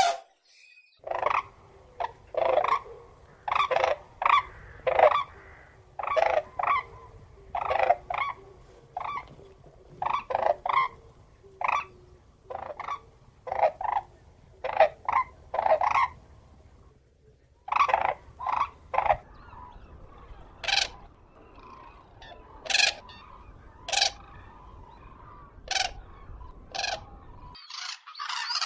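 Common cranes calling: a long series of short, loud calls, some in quick runs of two or three, over a faint low rumble. The calls come more sparsely in the second half and stop shortly before the end.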